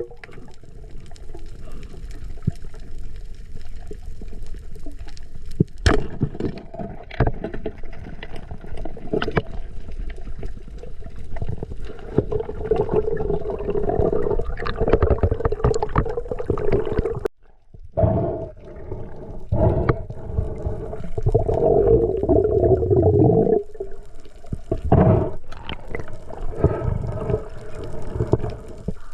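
Underwater sound picked up by a diving camera: water rushing and bubbling, with scattered clicks and a low droning hum that swells twice in the middle.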